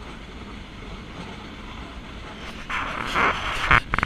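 Nilgiri Mountain Railway train running with a steady low rumble. About three seconds in, a loud hissing rush sets in for about a second and ends in a sharp knock and a quick clatter of clicks.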